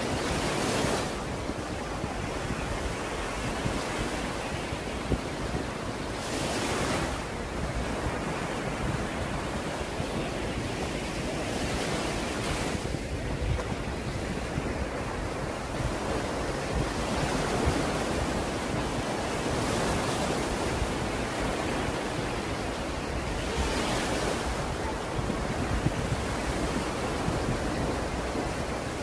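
Sea surf breaking on a sandy beach: a continuous wash of waves, swelling louder every few seconds as each wave breaks.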